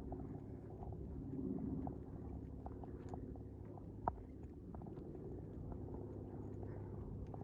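Footsteps of someone walking along a path: light irregular ticks over a low steady rumble, with one sharper click about four seconds in.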